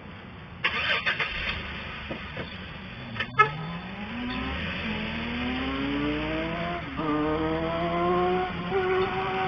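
Motorcycle engine accelerating hard, its pitch rising steadily and dipping briefly at an upshift about 7 s in and again a second and a half later before climbing on. A sharp click sounds a little over three seconds in.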